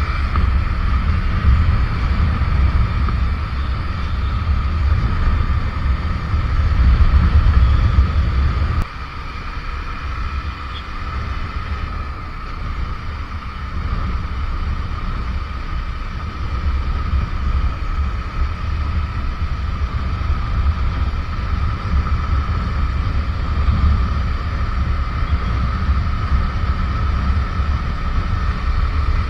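Wind buffeting the microphone on a moving motorcycle, over a steady engine note. The low rumble drops off suddenly about nine seconds in and builds back up later.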